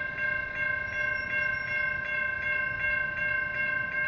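Railroad grade-crossing warning bell ringing in a fast, even repeat, about three dings a second. It stops abruptly near the end.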